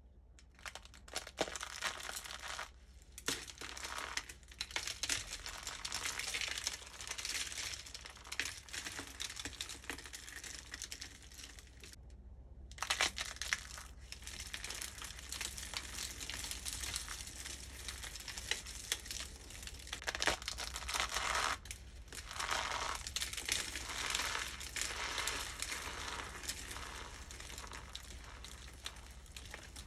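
Dry pieces of starch-coated soap crushed and crumbled by hand, giving a dense, continuous crackling crunch with a short break about twelve seconds in.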